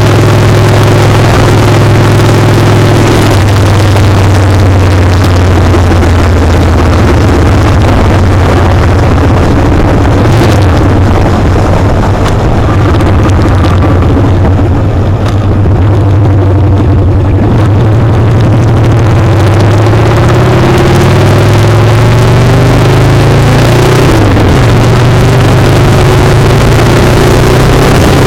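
Motorcycle engine running at road speed over a loud rush of wind, heard close up from a foot-peg-mounted camera. The engine eases off around the middle, then its pitch climbs as it accelerates in the last several seconds.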